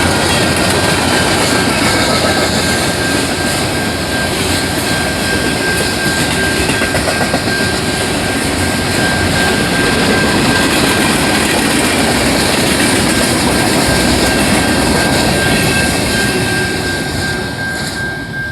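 Short freight train passing close by: a loud, steady rumble and rattle of the locomotive and cars, with a thin steady high tone running through it, dying down near the end as the train goes by.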